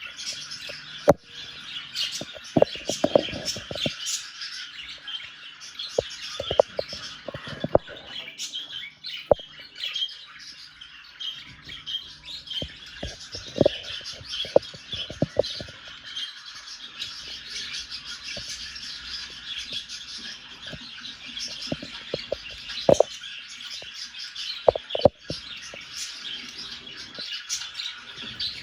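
Budgerigars chattering in a steady, busy warble of chirps and squawks, with scattered sharp taps and clicks among it.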